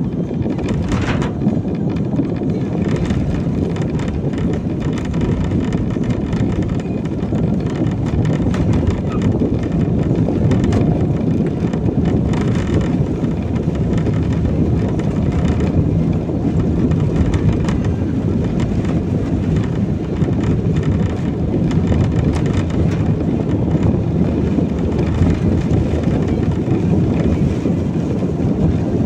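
Car driving on a wet road in rain, heard from inside the cabin: a steady low rumble of tyres and engine.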